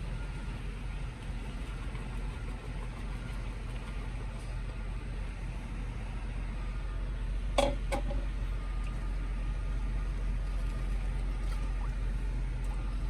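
Steady low hum of an idling truck engine, with two sharp clicks in quick succession a little past halfway.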